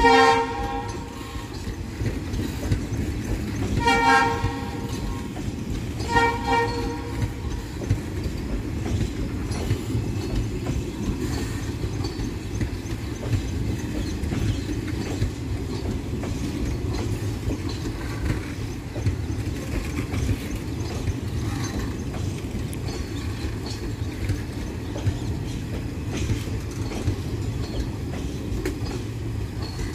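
Passenger coaches rolling past at speed, with a steady rumble and the clatter of wheels over the rail joints. A train horn toots three times, at the start, about four seconds in and about six seconds in.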